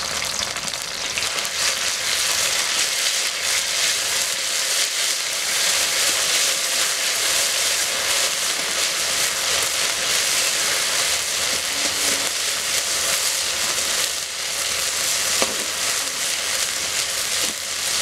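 Chilli and coriander paste, green chillies and red spice paste sizzling steadily in hot oil in a metal kadai, with a metal spatula stirring and scraping through it.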